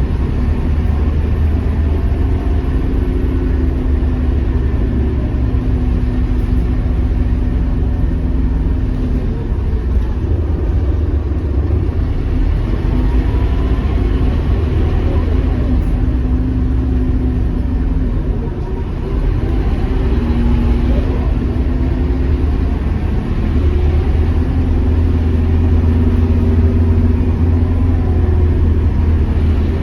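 Scania K230UB bus's diesel engine running under way, its note rising and falling as the bus accelerates and eases off. The sound dips briefly about two-thirds of the way in, and a heavier low drone takes over in the last quarter.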